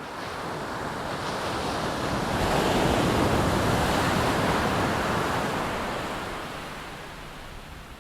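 Boeing-Stearman PT-17 biplane with its radial engine passing by: a broad rushing roar that swells to a peak around the middle and then fades away.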